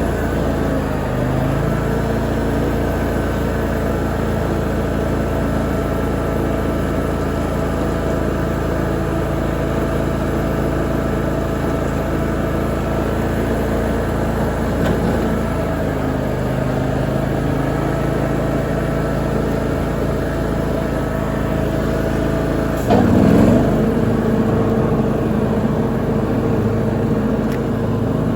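Lawn mower engine running steadily while mowing, its pitch shifting slightly partway through, with a brief louder burst of noise about three-quarters of the way in.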